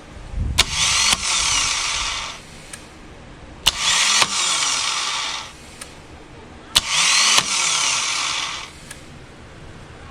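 Starter on a 2007 Harley-Davidson Night Train cranked three times: each time a sharp click, then a high whir for about two seconds as the starter spins freely without turning the engine over. This is the sign of a failed starter clutch, its Bendix gear teeth chipped and shaved away.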